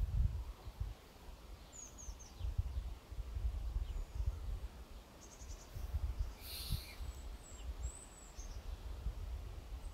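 Birds chirping now and then, short high calls, over a low gusty rumble of wind on the microphone.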